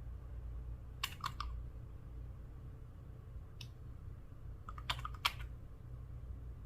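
Slime being squeezed and worked by hand, giving two quick clusters of small sticky clicks and pops, about a second in and again near five seconds, with a single faint click between them. A low steady hum runs underneath.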